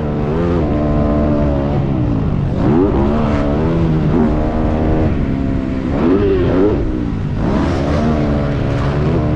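Motocross dirt bike engine at full speed, its pitch repeatedly climbing and dropping with throttle and gear changes.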